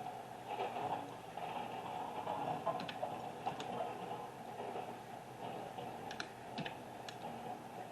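Steady hum of distant construction machinery, with a handful of sharp light clicks, a few around the middle and more near the end.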